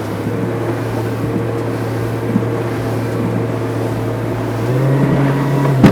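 Outboard motor of an aluminium motorboat running under way through waves: a steady drone that rises in pitch about three-quarters of the way through as the engine speeds up.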